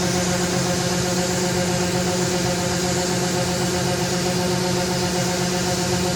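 Combine harvester running steadily under load, its engine and machinery making a constant drone over an even hiss.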